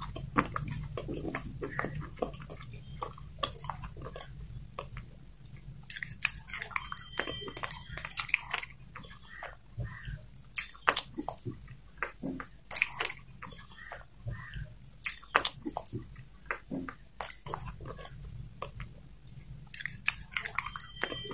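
Slate pencil being chewed: irregular sharp crunches and crackles as the brittle slate is bitten and ground between the teeth, mixed with wet mouth sounds as it turns to paste.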